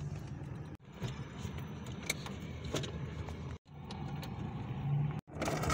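Suzuki car's engine idling steadily just after being started, with a few light clicks from keys and dashboard controls. The sound cuts out very briefly three times.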